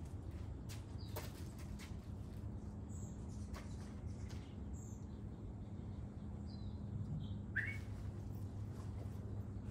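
A few short, scattered bird chirps, some of them brief glides in pitch, over a steady low hum.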